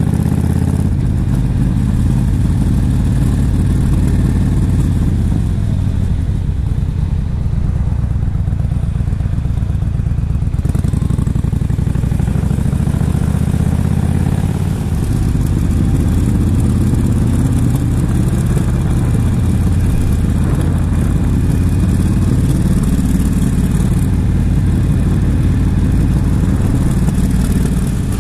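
Yamaha XVS1300CU Stryker's 1304 cc V-twin engine running steadily as the motorcycle is ridden downhill, with wind rushing over the action-camera microphone. The wind eases for a few seconds about a third of the way in.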